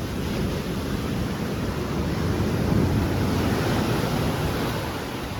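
Choppy sea surf washing onto the beach, with wind buffeting the microphone; the surf swells about halfway through, then eases.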